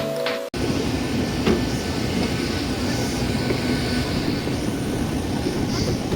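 A short tune cuts off about half a second in, giving way to the steady rumbling cabin noise of a Ryanair Boeing 737-800, with a few faint clicks over it.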